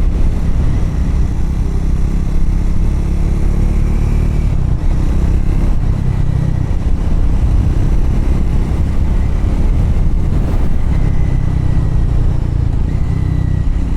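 Triumph Scrambler's parallel-twin engine running steadily as the motorcycle rides along, its note shifting twice, about a third and three quarters of the way through.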